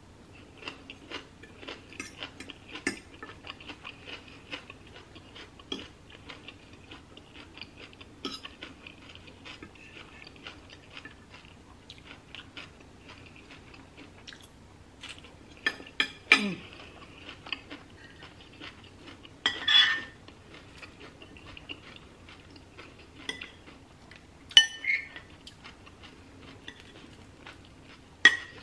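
Chewing of salad and bread, a run of small crunchy clicks, with occasional sharper clinks of a metal fork and spoon against a ceramic plate and soup bowl.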